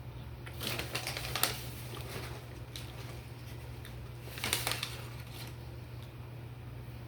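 Close-miked eating of a fried chicken sandwich meal: two short bouts of crackly crunching, about a second in and again near the middle, over a steady low hum.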